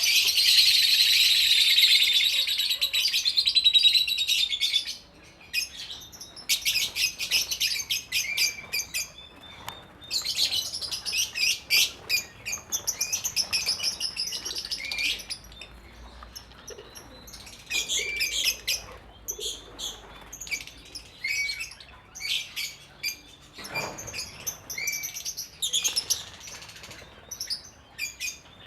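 A colony of lovebirds chattering: a dense, loud chorus of high chirps for the first few seconds, then bursts of rapid chirping with short pauses between them.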